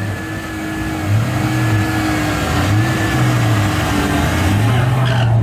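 Truck engine running, its pitch wavering gently up and down.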